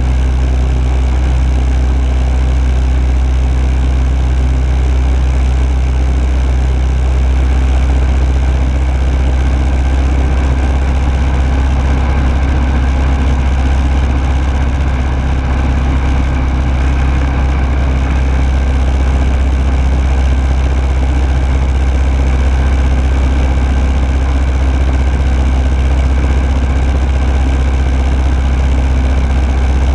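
Rotax 912S four-cylinder boxer engine and propeller of a Rans Coyote S6 ultralight running steadily in flight, heard loud from on board, with a constant low drone and airflow noise.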